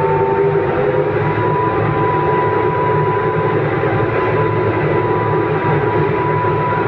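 Vehicle engine running steadily under load on an uphill climb, a droning whine that rises slowly in pitch, over a steady hiss.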